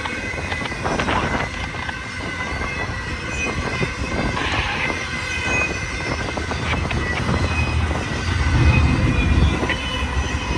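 Intermodal freight train cars rolling past, wheels clicking over the rail joints with a thin, steady wheel squeal above the rumble.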